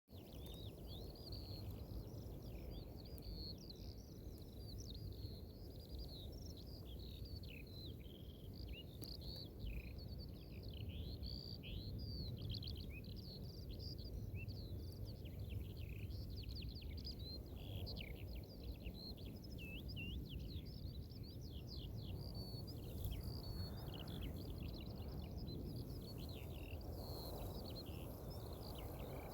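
A dense chorus of many small songbirds singing over open countryside, quick chirping and trilling notes overlapping without pause, over a steady low rumble of wind on the microphone.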